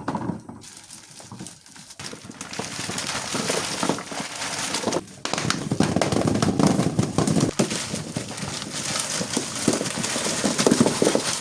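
Continuous crackling and rustling made of many small clicks, quieter in the first couple of seconds and louder after a brief dip about five seconds in.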